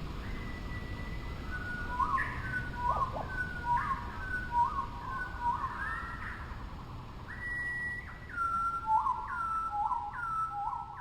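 A songbird whistling clear notes, repeating short two-note phrases over and over, over the steady rush of a stream.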